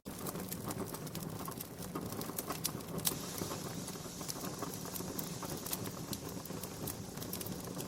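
Wood fire in a fireplace crackling, with frequent sharp, irregular pops over a steady hiss.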